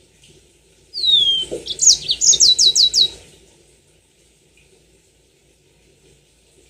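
A yellow-fronted canary (Mozambique canary) sings one short phrase about a second in: a falling whistle, then a quick run of about six down-slurred notes, lasting about two seconds.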